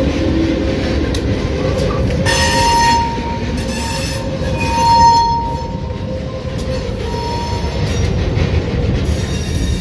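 Slow-moving train with diesel locomotives rolling past close by, making a steady low rumble. From about two seconds in, the wheels squeal on the rail several times in drawn-out, high squeals, the loudest about five seconds in.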